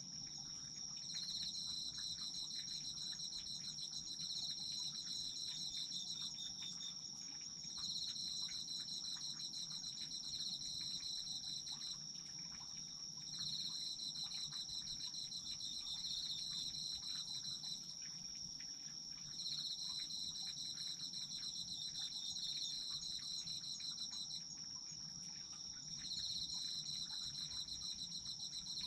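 Autumn insects, crickets, calling together: one high, unbroken steady trill, and under it a pulsed trill that comes in phrases of about five seconds, repeating about every six seconds.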